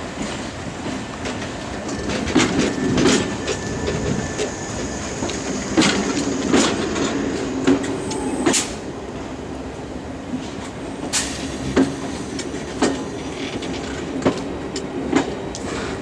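London Underground A Stock electric train running slowly alongside a platform. Its wheels clack over a rail joint in pairs every few seconds as each carriage's bogies cross, over a steady low running hum.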